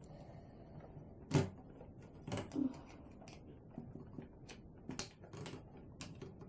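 Plastic clicks and taps of electronics-kit parts being handled and pressed onto the kit's base board: a sharp click about a second and a half in, then a few more scattered ones.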